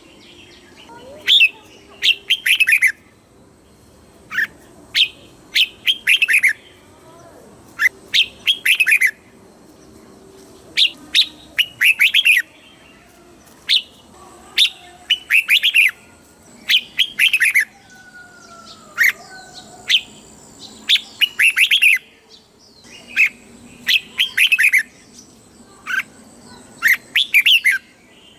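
Red-whiskered bulbul singing: short phrases of quick, falling whistled notes, repeated every second or two, with brief pauses between them.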